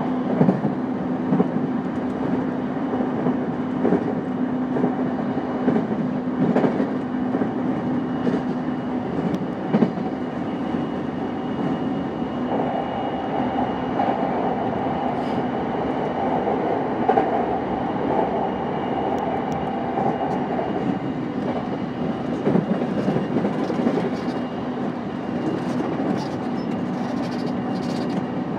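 Onboard running sound of a JR East E233 series 5000 electric train at speed: a steady rumble of wheels on rail with a humming tone from the drive, and a few clicks as the wheels pass over rail joints.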